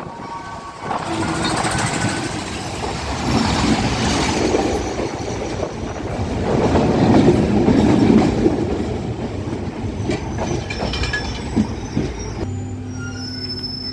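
Train running on the rails, loud and noisy with some clatter. About 12 seconds in, the sound turns into steady tones with a high-pitched wheel squeal.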